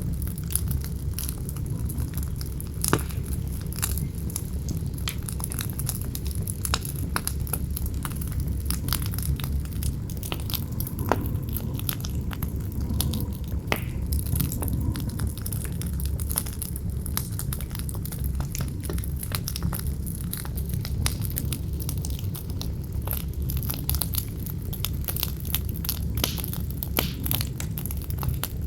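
Campfire crackling with many irregular small pops and a few sharper snaps, over a steady low rumble of wind.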